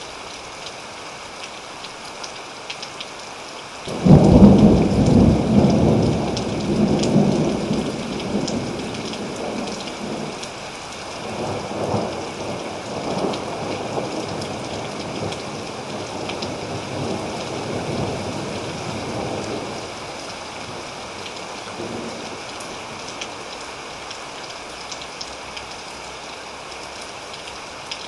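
Thunderstorm: steady rain pattering, with a sudden loud clap of thunder about four seconds in that rolls on in waves and dies away over the next fifteen seconds.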